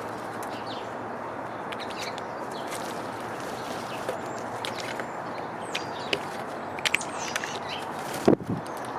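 Small birds at a feeder chirping in short high calls over a steady outdoor hiss, with scattered light clicks and one loud knock about eight seconds in.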